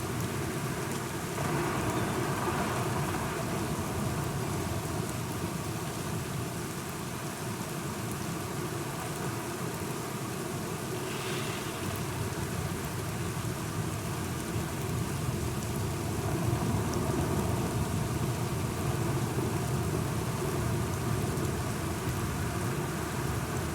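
Steady rain falling, with low rolling thunder rumbling underneath that grows a little louder in the second half.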